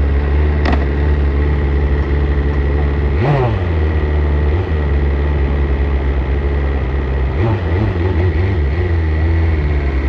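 BMW S1000RR inline-four with an Akrapovic exhaust running steadily at idle, with a sharp click early on and a brief rise and fall in engine pitch about three seconds in and again near seven and a half seconds.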